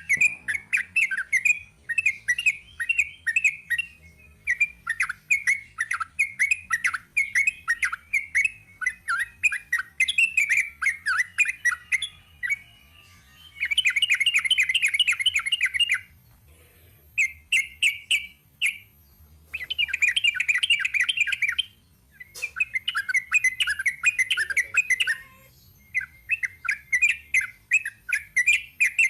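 Yellow-vented bulbul (trucuk) singing long runs of quick, repeated chattering notes, in bursts of a few seconds broken by short pauses.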